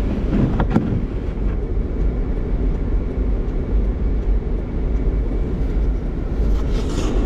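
Steady low road and engine rumble of a car being driven, heard from inside the cabin, with a couple of brief clicks about a second in.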